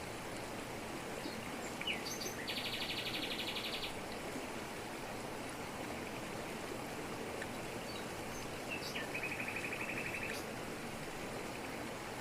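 Jungle waterfall rushing steadily, with a bird singing over it twice. Each song is a few short chirps leading into a fast trill: the first comes about two and a half seconds in, and a second, lower trill comes around nine seconds.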